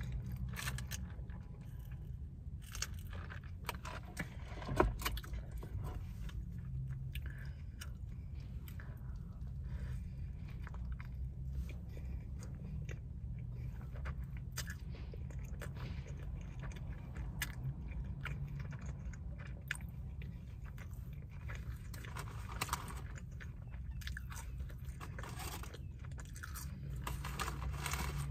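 Close-miked chewing and biting of a soft-bun egg and sausage sandwich: wet mouth sounds with many small clicks, and one sharper, louder click about five seconds in. A steady low hum runs underneath.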